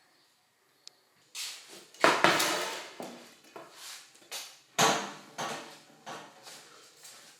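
A series of knocks and clanks of metal bicycle parts being handled and tapped, the loudest about two seconds in and another strong one near the five-second mark.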